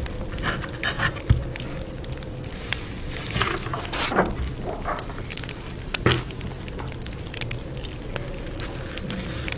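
Campfire crackling: irregular small pops over a low rumble, with a sharper snap about a second in and another about six seconds in.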